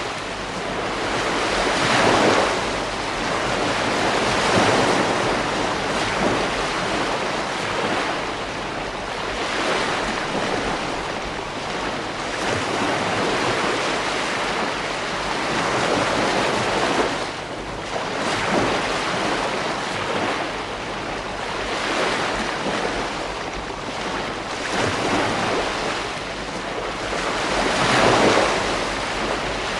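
Ocean waves breaking and washing up a beach: a continuous surf hiss that swells with each breaking wave every few seconds, with some wind noise on the microphone.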